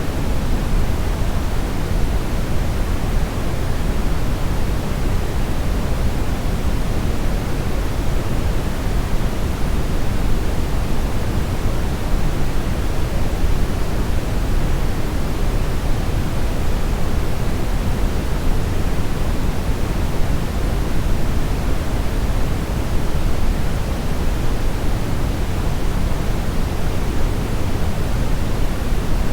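Steady synthetic brownish noise: an even, unchanging hiss weighted heavily toward the low end, with no tones or events.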